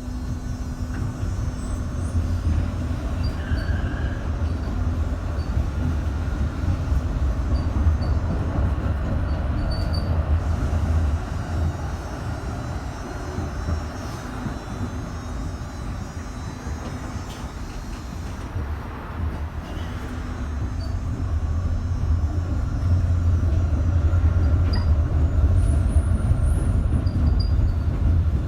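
M8C tram running on its rails: a steady low rumble of wheels and drive that builds over the first few seconds. It eases off around the middle, then swells again near the end.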